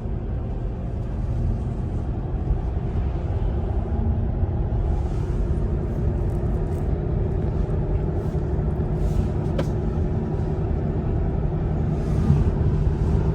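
Steady low road and tyre rumble inside the cabin of a moving Tesla, an electric car with no engine note.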